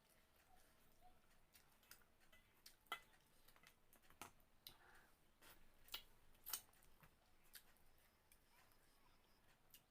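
A person eating: quiet chewing with scattered sharp mouth clicks and smacks, the loudest about three and about six and a half seconds in.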